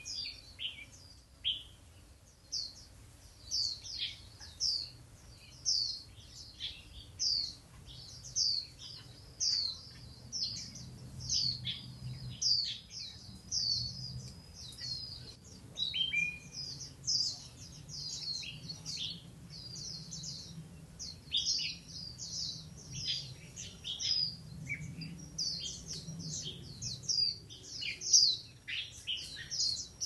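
Songbirds singing: a long run of short, high, down-slurred chirps repeated about once a second, with other birds calling among them.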